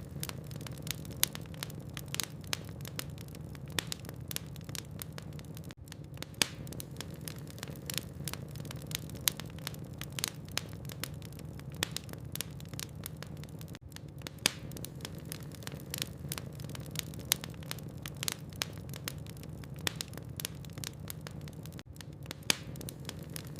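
Log fire in a fireplace crackling: irregular sharp snaps and pops of burning wood, several a second, over a steady low hum.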